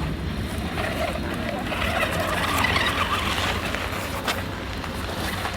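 Toy remote-control monster truck driving off, its small electric motor running, louder for a moment in the middle.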